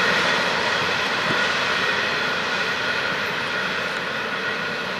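Freight train's intermodal cars rolling away on steel wheels, a steady rolling noise with faint high ringing tones that slowly gets quieter as the end of the train recedes.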